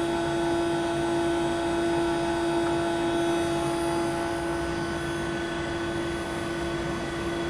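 Hybrid micro-machining machine running, a steady whine over an even mechanical hum.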